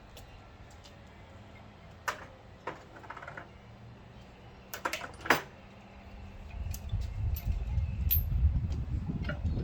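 Hand tools being handled: a few sharp metallic clinks and clanks of sockets and wrenches, the loudest about halfway through. A low rumble sets in near the end.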